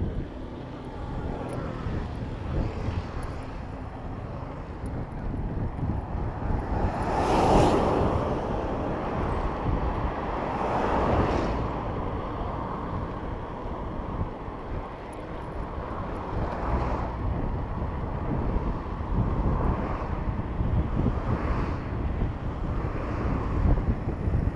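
Wind rumbling on the microphone of a bicycle ride-along recording in city traffic, with motor vehicles swelling up and fading as they pass. The loudest pass comes about seven seconds in, and another about eleven seconds in.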